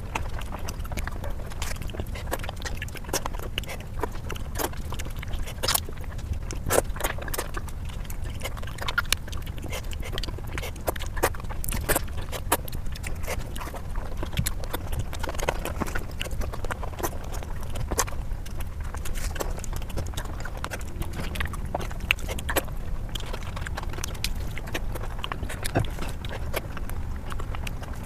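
Close-up eating sounds of a person chewing rice and fish curry: irregular wet clicks and mouth smacks throughout, over a steady low rumble.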